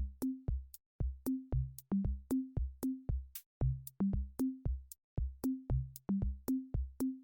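Electronic drum-machine beat: short bass-drum thumps and low pitched drum hits stepping between a few notes, about four hits a second, with crisp clicks on top and two or three brief breaks.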